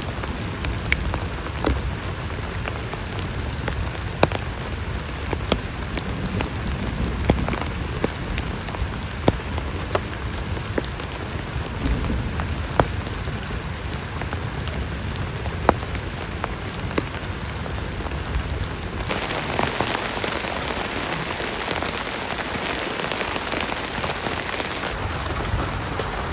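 Heavy rain falling steadily, with many sharp drops striking close by. About nineteen seconds in, the rain turns brighter and hissier for about six seconds, then returns to the earlier sound.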